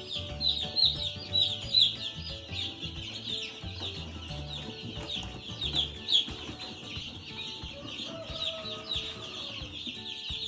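A brooder full of newly hatched Cornish Cross broiler chicks peeping without pause: a dense chorus of short, high, falling cheeps, with a few louder ones near the start and about six seconds in.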